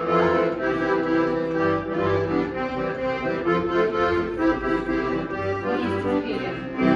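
Accordion playing a lively Russian chastushka dance tune with no singing: sustained chords over a repeating bass note.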